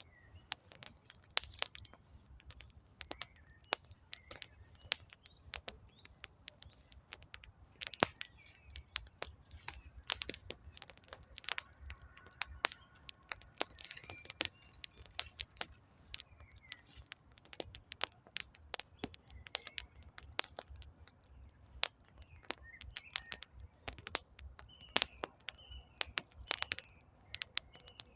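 Wood fire crackling, with many irregular sharp pops and snaps. Birds chirp faintly in the background.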